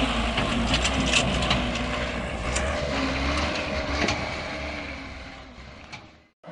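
A heavy vehicle's engine running with a steady low rumble, mixed with scattered clanks and knocks, fading away near the end.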